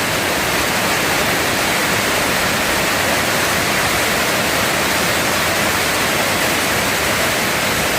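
Heavy tropical downpour, a steady loud hiss of rain.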